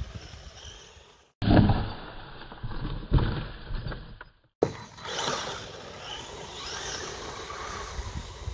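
Brushless 1/10-scale RC rally car running on a woodland trail, its motor whine rising and falling over low rumbling tyre and wind noise. The sound cuts out briefly about a second in and changes abruptly twice.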